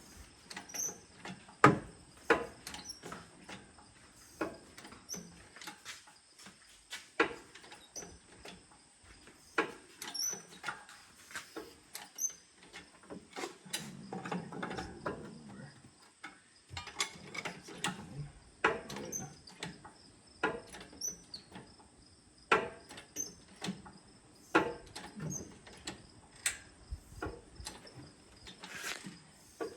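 Engine hoist being worked to lift a 5.4L Triton V8 out of a truck: sharp mechanical clicks and clanks at irregular intervals, roughly one every second or two.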